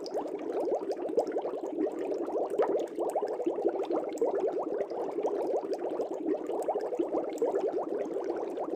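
Aquarium air bubbles rising and bubbling continuously at the water's surface, a dense stream of small gurgling blips.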